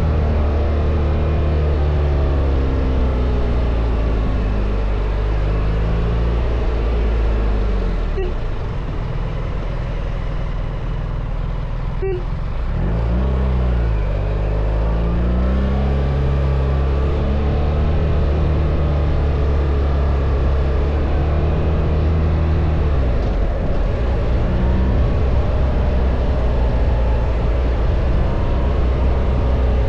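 BMW R1300 GS boxer-twin engine running on the move. Its pitch sinks and it runs a little quieter about eight seconds in, then climbs again around twelve seconds in as it picks up speed, and holds fairly steady after.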